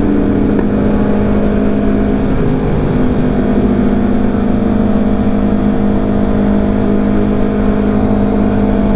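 Yamaha R3's 321 cc parallel-twin engine running at a steady speed while riding, under a steady rush of wind noise.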